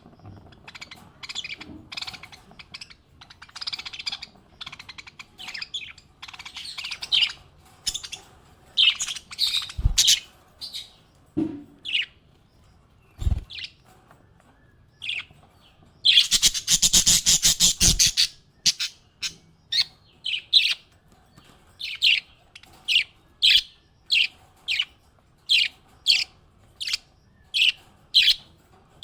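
Small pet parrots chirping: scattered short high chirps, then a loud rapid chattering burst of about two seconds just past halfway. After that, single chirps come evenly, about three every two seconds. Two brief low thumps fall in the first half.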